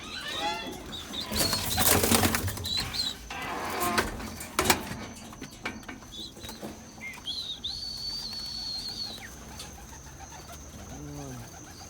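Tippler pigeons in their loft: a burst of wing flapping and rustling about a second and a half in, then a sharp knock, with pigeons cooing near the start and again near the end. A thin, high, steady tone sounds for about two seconds midway.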